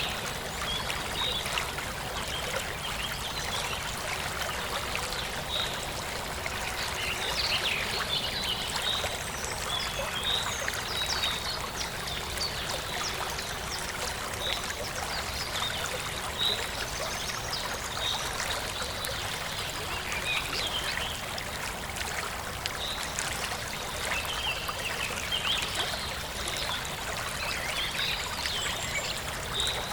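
Forest stream trickling and flowing steadily, with birds chirping throughout.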